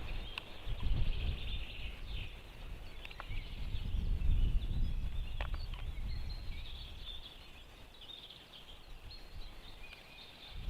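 Small birds chirping and singing in the background over a low, gusting wind rumble on the microphone.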